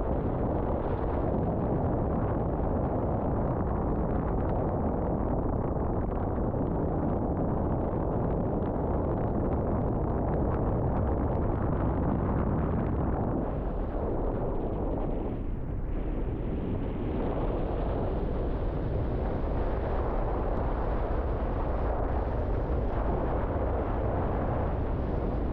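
River water rushing steadily, a dense noise heavy in low rumble, easing slightly for a moment about two-thirds of the way through.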